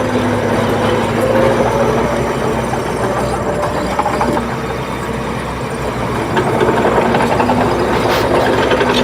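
Heavy diesel engine of a Shantui bulldozer running steadily under load. It eases off for a moment around the middle, then picks up again.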